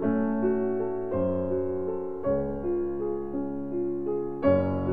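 Background music on piano: slow, sustained chords with new chords struck every second or two.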